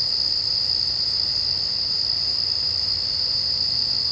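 Chorus of singing insects: a steady, unbroken, high-pitched trill.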